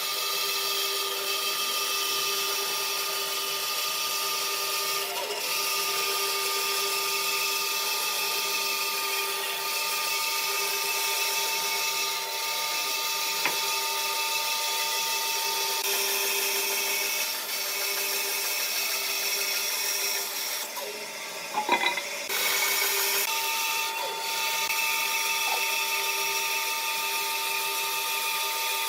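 A high-speed electric power tool working wood, running steadily with a whine whose pitch steps down slightly a few times. About three-quarters of the way through it briefly eases off with a few sharp knocks, then runs on.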